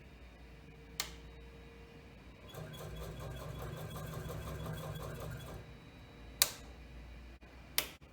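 A sharp click about a second in. Then the Yıldızay scroll saw runs for about three seconds with a rapid, even chatter from its reciprocating blade, and stops. Two more sharp clicks follow near the end.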